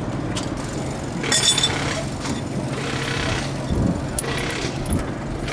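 Impact wrench running in a short burst about a second in, with clinks of metal tools and a steady low hum underneath, during a quick tie-rod repair on a drift car.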